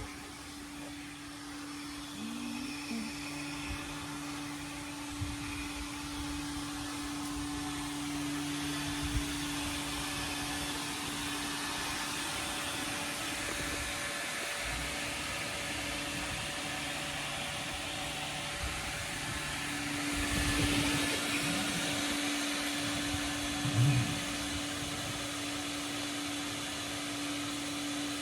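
Vacuum cleaner running steadily while cleaning a truck's interior, a hissing suction with a steady hum, with a couple of short louder thumps in the later part.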